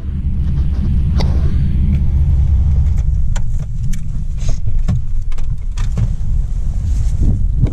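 Blizzard wind buffeting the microphone, a loud steady low rumble, with scattered sharp clicks and crunches over it.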